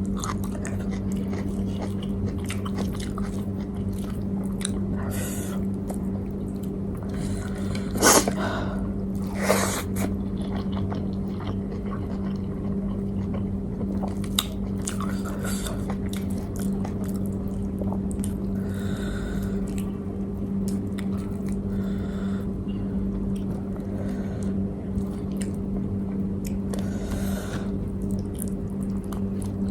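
A person chewing and biting food close to the microphone, with many small wet clicks and two louder bites about eight and nine and a half seconds in. A steady low hum runs underneath.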